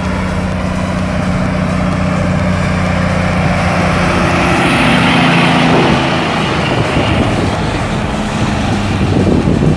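Tractor-trailer truck's diesel engine running with a steady note that shifts about halfway through.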